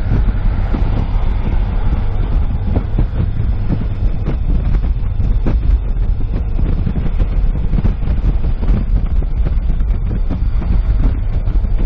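Road and engine noise heard inside a moving car's cabin: a steady low rumble with scattered light ticks.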